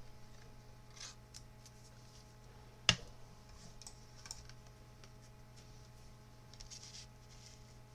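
Faint rustling and scraping of cardstock being handled and pressed down during gluing, with one sharp click a little under three seconds in and a smaller tick about a second later.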